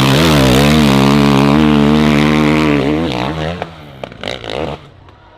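Dirt bike engine revving hard, its pitch wavering up and down. After about three seconds it drops away, with a couple of short throttle blips before it fades.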